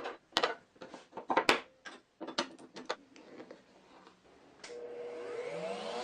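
Short wooden knocks and clatter as wooden pieces are handled, then near the end a power saw's motor starts and winds up, its pitch rising.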